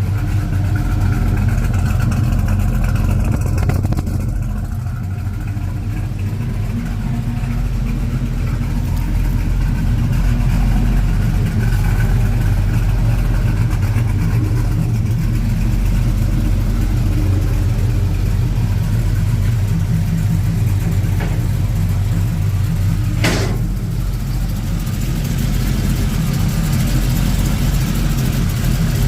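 Truck engine running steadily through its newly fitted exhaust, a low even rumble. There is one brief burst of noise about three-quarters of the way through.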